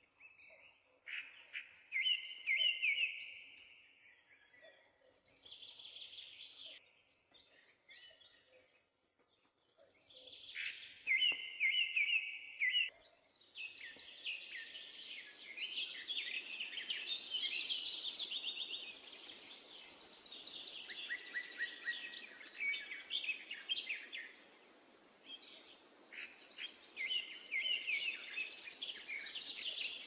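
Several birds singing and chirping in short repeated phrases. About halfway through it becomes a fuller, continuous chorus with higher trills over a steady hiss.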